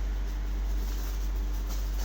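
Steady low hum with a faint steady tone above it, and two faint light clicks about one and two seconds in.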